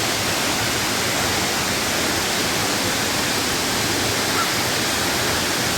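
Waterfall, a steady rush of falling and splashing water.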